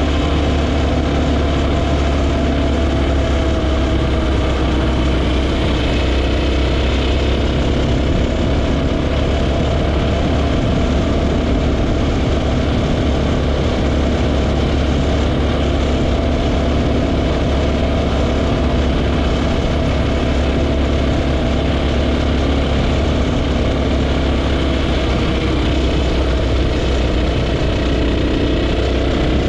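KTM EXC 450's single-cylinder four-stroke engine running steadily while the motorcycle is ridden along at an even speed, heard from on the bike, with only small changes in engine pitch.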